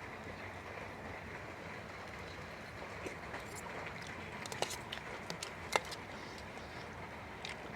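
Steady rain hiss, with a few sharp clicks, the clearest about four and a half and six seconds in.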